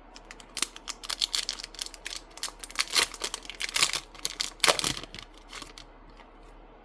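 Crinkling and tearing of a trading card booster pack's foil wrapper as it is opened, a fast run of small crackles that dies away near the end.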